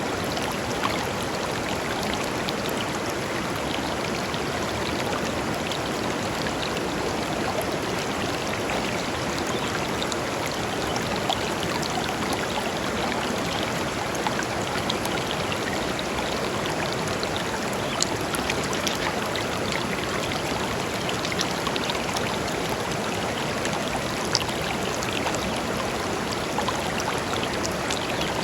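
Shallow river flowing steadily over stones, an even rushing of water with small splashes and drips scattered through it.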